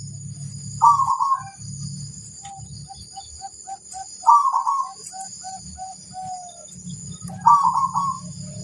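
Perkutut (zebra dove) cooing: three loud coos about three and a half seconds apart, with a quick run of short, softer notes between them. A steady high-pitched ringing and a low rumble run underneath.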